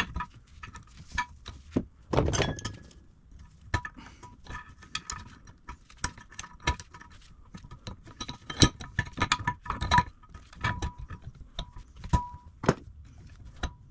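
Metal parts of a cast-iron bench vise and hand tools clinking and tapping as the movable jaw assembly is taken apart: many short, sharp clicks with a faint metallic ring, and a brief scrape about two seconds in.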